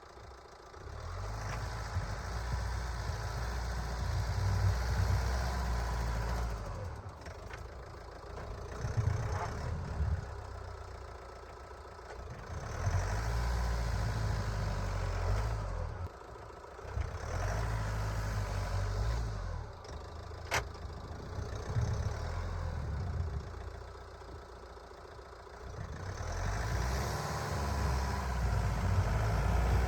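Van engine revving in repeated surges a few seconds apart, each swelling and then dropping back.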